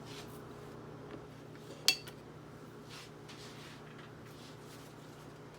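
Tableware clinking once, sharply, about two seconds in, with a brief ring, amid faint handling rustles; a steady low hum runs underneath.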